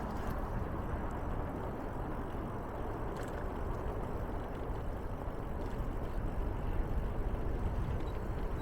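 Steady rumbling noise of a bicycle ride: wind on the microphone and tyres rolling, strongest in the low range, with a faint click about three seconds in.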